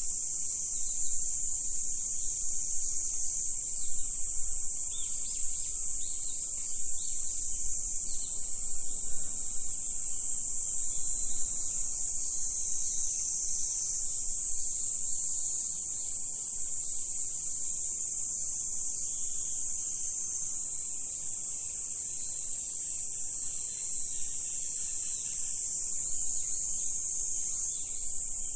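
Continuous high-pitched insect chorus, steady throughout, with faint short bird calls now and then.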